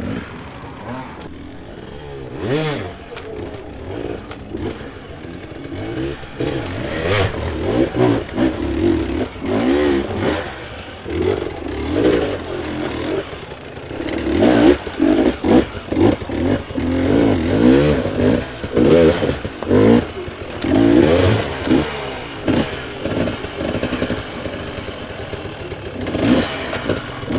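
Dirt bike engines revving in repeated bursts, the pitch rising and falling again and again, louder from about halfway through.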